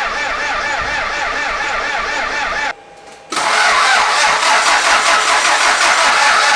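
Toyota MR2 SW20 engine being cranked on the starter motor, its pitch wavering up and down a few times a second with each compression stroke. About three seconds in the sound cuts out briefly, then a louder, rougher engine sound follows.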